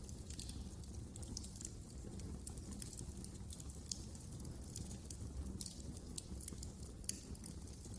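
Fireplace fire crackling: a quick, irregular scatter of small snaps and pops over a low, steady rumble of flame, with two louder snaps about four and seven seconds in.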